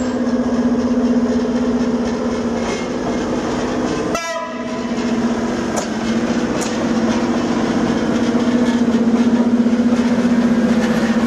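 Horn of a CFR railway maintenance machine shunting, sounding one steady tone: a blast of about four seconds, then after a brief break a second, longer blast of about seven seconds, over the rumble of the rail vehicle.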